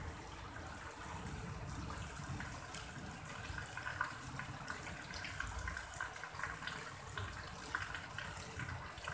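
Steady rain falling on a wet paved lane, an even hiss dotted with many small drips and splashes.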